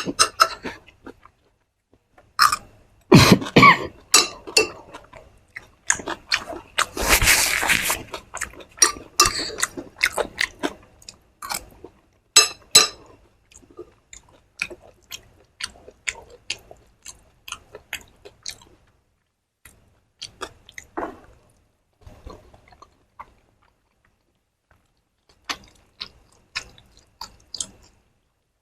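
A person chewing close to the microphone while eating chotpoti, a Bangladeshi chickpea street snack: a run of short wet clicks and crunches, busiest in the first half, with a longer, louder stretch about seven seconds in and sparser clicks near the end.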